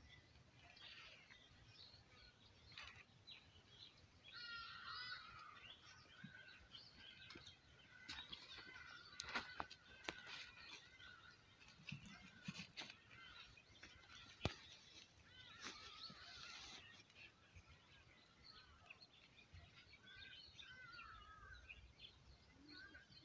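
Faint birds chirping and calling in the background, on and off, with a few sharp clicks near the middle.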